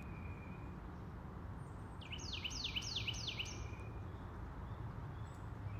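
A small bird calls a quick run of about five falling, whistled notes, about two seconds in. Underneath is a faint, steady low outdoor rumble.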